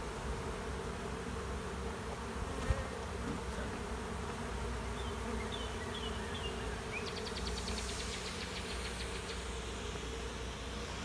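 Steady buzzing hum of a honey bee swarm gathered at a hive, many bees fanning their wings at the entrance. A sharp click about two and a half seconds in, a few short high chirps midway and a fast high trill in the second half sound over the hum.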